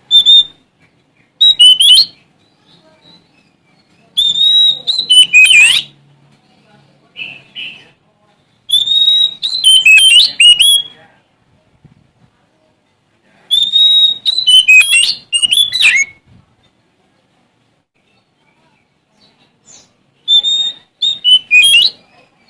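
Oriental magpie-robin of the Sumatran form singing vigorously: about six loud bursts of clear whistles and rapid, varied notes, separated by short pauses.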